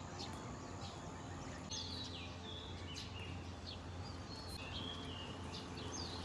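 Birds chirping outdoors: many short calls and whistled notes, some rising or falling, over a steady background of outdoor noise.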